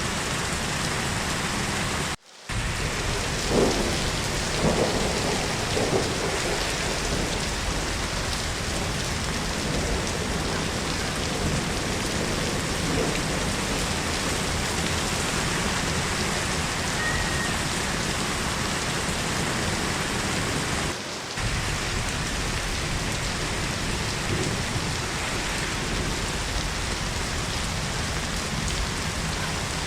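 Heavy, steady rain falling. The sound cuts out briefly about two seconds in, and a few louder surges follow soon after.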